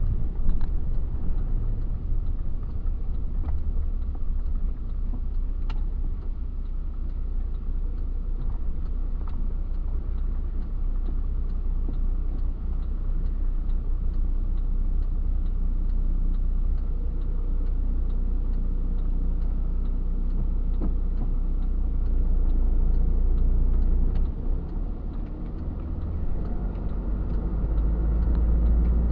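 Steady low engine and road rumble inside a truck cab while driving. The rumble eases briefly near the end, then picks up again.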